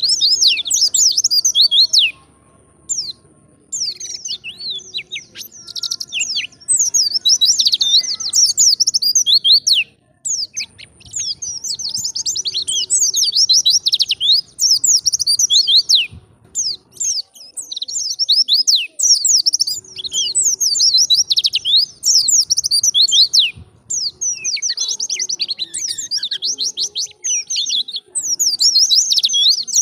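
White-eye (pleci) singing a long, rapid twittering song of high chirps and trills. The song comes in extended phrases broken by short pauses, the longest a second or so just after the start.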